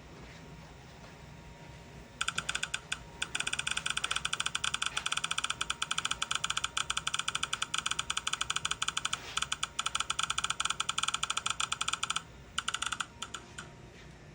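A fast, dense run of sharp clicks, many per second, starting about two seconds in and stopping abruptly about twelve seconds in, followed by a few scattered clicks.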